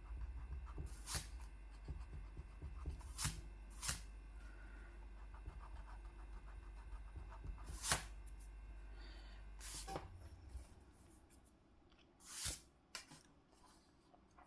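Scattered soft clicks and rustles of paper and drawing materials being handled, about six in all, over a low steady hum that stops about ten seconds in.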